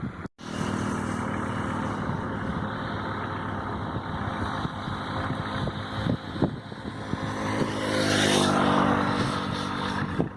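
Tractor engine running steadily under a heavy load, getting louder for a couple of seconds about eight seconds in. There is a brief gap just after the start.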